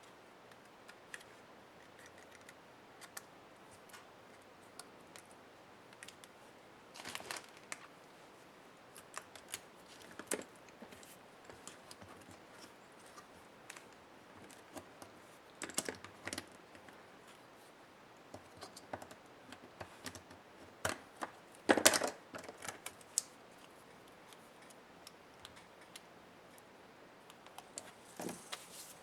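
Scattered small clicks, taps and rattles of plastic and metal laptop parts being handled and worked with small hand tools during disassembly, with a louder cluster of knocks about two-thirds through.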